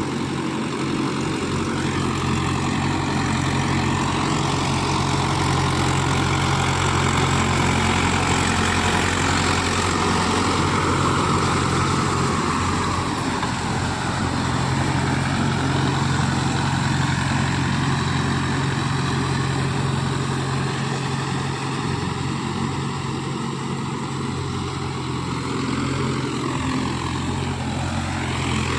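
Mahindra Yuvo Tech+ 575 DI tractor's diesel engine running steadily while driving a Shaktiman rotavator, with a mid-pitched whine that slowly rises and falls in pitch.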